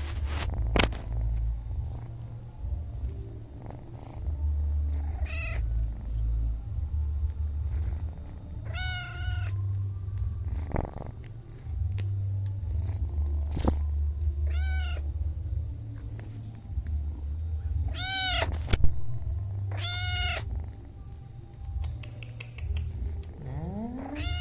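Domestic cat meowing about six times, in short high calls, over a low steady purr that rises and falls in stretches of a second or two.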